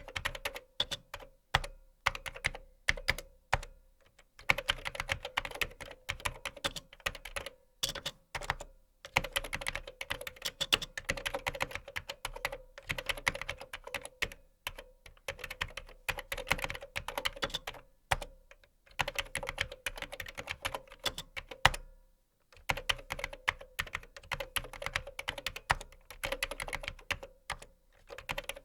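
Typing on a computer keyboard: fast runs of key clicks broken by several short pauses.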